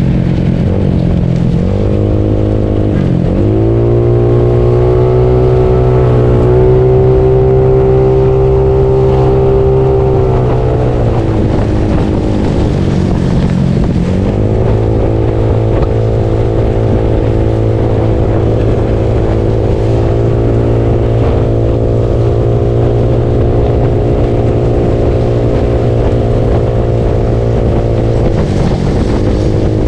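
Bored-up Yamaha Mio scooter's single-cylinder engine running under way. Its pitch drops and climbs again as the throttle is eased and reopened about a second in, around three seconds in, between twelve and fourteen seconds, and near the end. In between it holds a steady cruising note.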